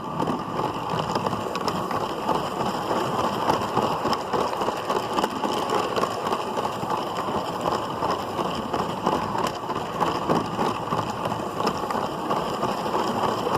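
LEGO City Passenger Train 60197 running along its plastic track: a steady rattling clatter of many small clicks from its motor and wheels, heard from a camera riding on one of its cars.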